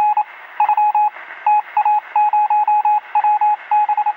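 Electronic beeping at a single mid pitch, keyed on and off in quick short and longer beeps in irregular groups, over a steady hiss like a radio signal.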